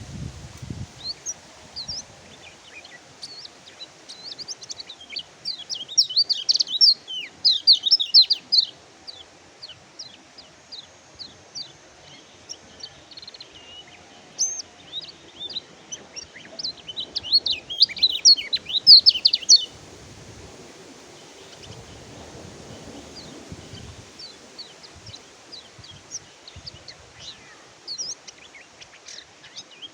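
Kecial kuning (yellow white-eye, pleci) singing a rapid twitter of short high chirps, with two dense loud bursts about six seconds in and again around seventeen to twenty seconds, and scattered calls between.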